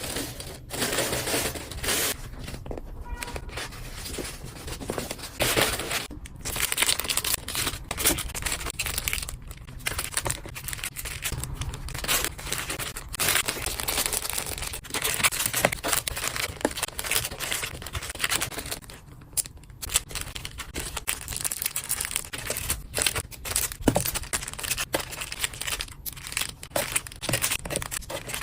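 Packaging being handled and packed: a continuous rustling and crinkling, with frequent short tearing and crackling sounds.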